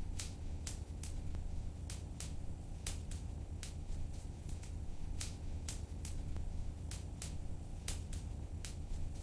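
Wood fire burning in a fireplace: a steady low rumble of the flames with irregular sharp crackles and pops, two or three a second.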